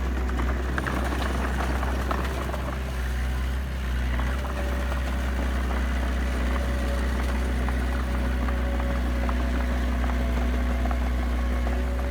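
Heavy diesel engine of a construction machine, a bulldozer or dump truck, running steadily under a constant low hum, with light scattered rattles.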